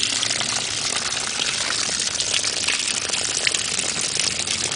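Steady rushing noise like running or gushing water, even and unbroken throughout.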